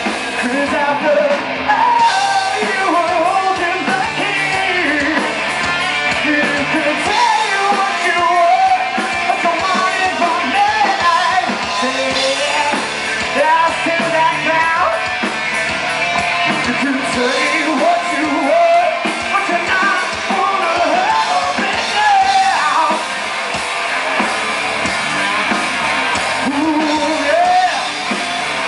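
Rock band playing live: a male lead vocal sung hard over electric guitars, bass and drums.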